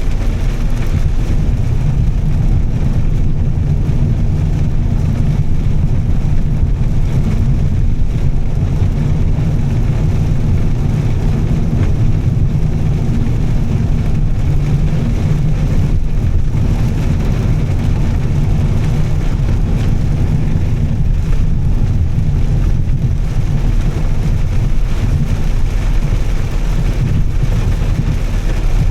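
Volvo S60 T6's turbocharged straight-six and Heico sport exhaust making a steady low drone while cruising, with road noise over it; the revs hold even throughout.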